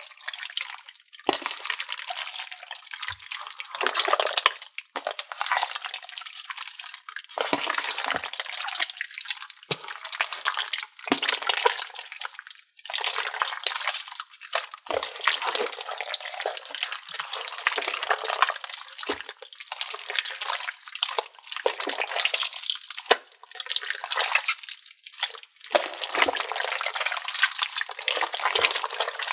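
A large mass of mixed slime and putty being squished, kneaded and stretched by hand: wet squelching with short clicking pops, coming in irregular bursts.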